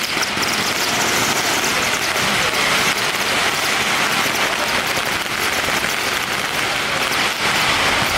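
Dense, continuous crackling of many strings of firecrackers going off at once, with no pauses.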